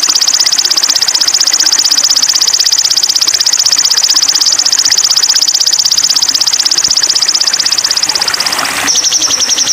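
A small songbird's recorded song: a loud, very fast, high trill of rapidly repeated notes held on steadily, switching to a slightly different trill near the end.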